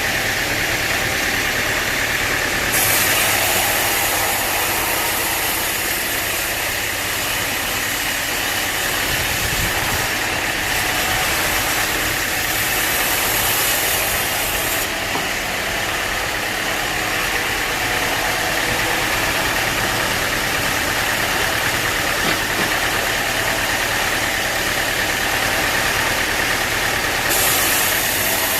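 Sawmill machinery running steadily with a dense mechanical noise. A brighter high hiss switches on about three seconds in, drops out about halfway through and returns near the end.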